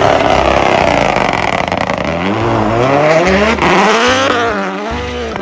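Race car engine revving: a loud rush of engine noise, then the engine note climbing in rising sweeps about two seconds in and easing off near the end.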